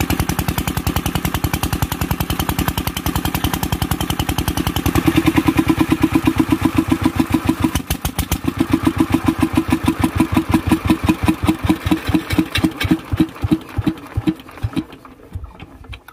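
Kirloskar single-cylinder diesel engine running with an even firing beat, louder about five seconds in. From about eight seconds in the beats slow and spread apart as the engine runs down, stopping near the end.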